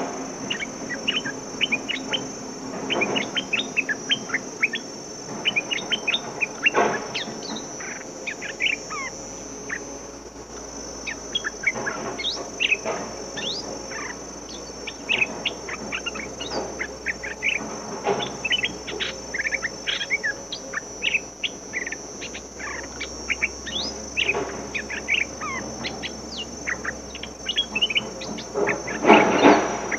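Bulbuls calling with rapid chirps and short whistled notes, in quick irregular runs, over a steady high insect drone.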